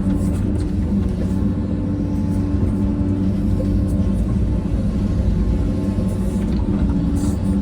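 Diesel engine of a heavy earthmoving machine, an excavator or bulldozer, running steadily with a low rumble.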